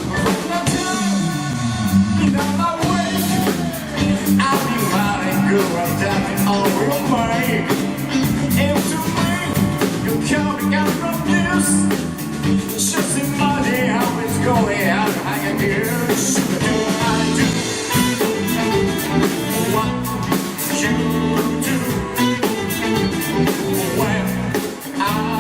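Live band playing a rock and soul cover song: drum kit, bass and electric guitar, with a lead melody line over them.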